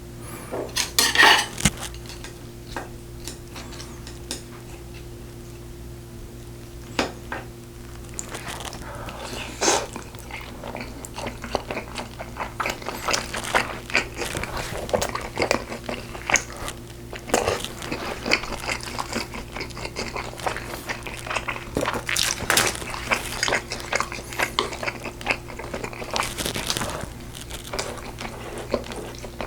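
Close-miked eating of braised pork ribs: utensils clicking against dishes, with biting and chewing between the clicks. A steady low hum runs underneath.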